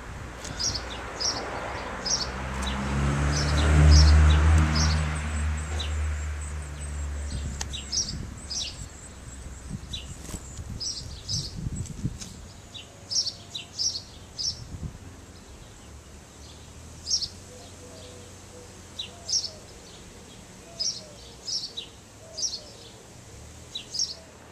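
Small garden birds chirping: short, high chirps repeated every second or so. Over the first several seconds a low rumble swells to a loud peak and fades away, like a vehicle or aircraft passing.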